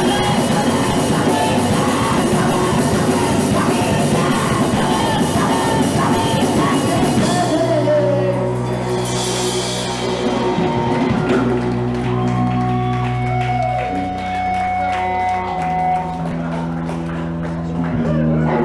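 Punk rock band playing live with vocals, loud and dense. About eight seconds in, the full band drops out into a cymbal wash, and long held guitar and bass notes ring on, shifting pitch every couple of seconds.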